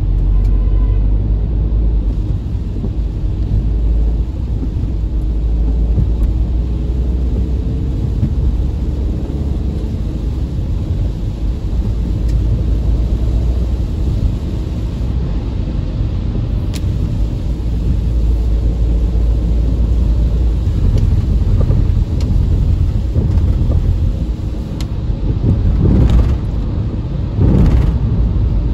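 Steady low rumble of a car on the road, with a few louder short swells near the end.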